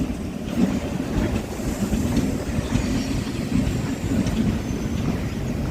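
Electric MEMU train's coaches rolling along the platform, a steady low rumble of wheels on the rails.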